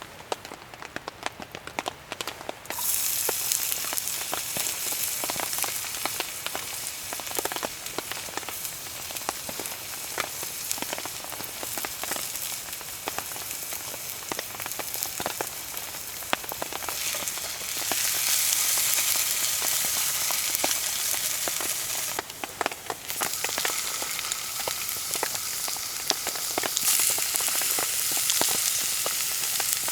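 Food frying in a pan over a campfire: a dense sizzle starts abruptly about three seconds in and carries on, getting louder and softer in steps. Before it there are only scattered small ticks, like drips.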